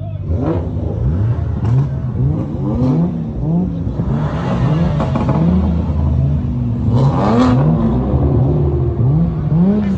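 A car engine revved over and over, its pitch climbing and dropping in quick succession, with two bursts of hiss, around the middle and near the end.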